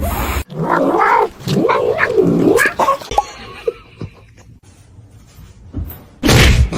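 A cat meowing, several drawn-out calls that waver in pitch over the first three seconds. Near the end comes a short, loud burst of noise.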